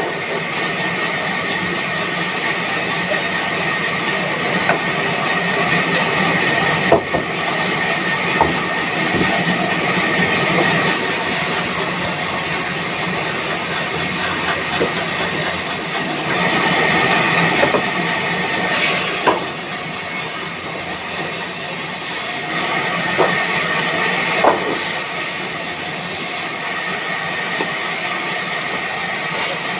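Sawmill woodworking machinery running steadily: a continuous loud hiss with a steady high tone and a low hum, broken by a few sharp clicks, with the hiss turning brighter for a few seconds near the middle.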